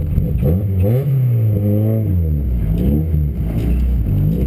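Race car engine revving up and down several times under load as the car is driven to pull its wheels out of the muddy ruts it has sunk into.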